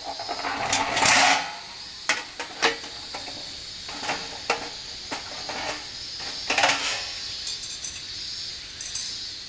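Metal camp gear being handled, making scattered clinks and clatters. A longer scraping rustle comes about a second in and another around two-thirds of the way through.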